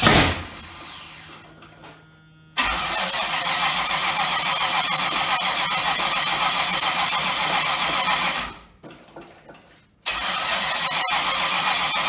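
Chevrolet Nova's engine being cranked on the starter in two tries: a long crank of about six seconds, then a shorter one starting about two seconds later. A short loud burst comes right at the start.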